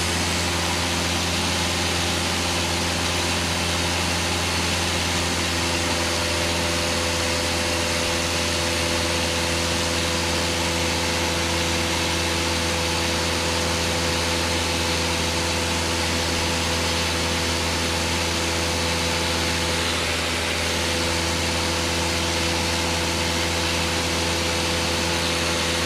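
Cessna light aircraft's piston engine and propeller droning steadily in cruise flight, heard inside the cabin. The pitch and level hold constant throughout.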